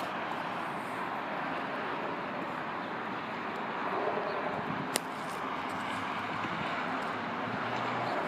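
Steady hiss of road traffic, with the engine hum of a passing vehicle in the second half and a single sharp click about five seconds in.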